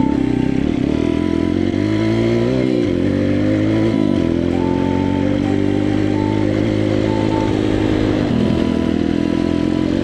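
140 cc pit bike's single-cylinder four-stroke engine running as the bike is ridden. The revs drop and pick up again a couple of times in the first half, like gear changes or throttle lifts, then hold steady and dip once more near the end.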